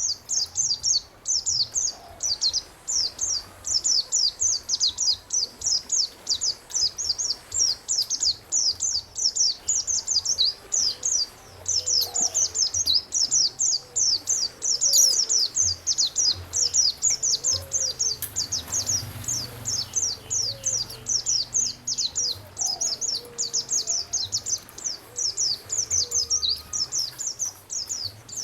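A songbird singing a fast, unbroken chatter of high, quick downward-sweeping notes, several a second, with a few fainter, lower short calls from other birds now and then.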